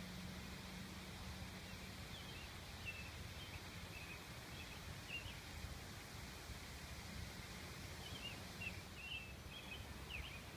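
Faint outdoor background noise with a steady low rumble, and scattered short, high bird chirps in two loose clusters, one about two seconds in and another near the end.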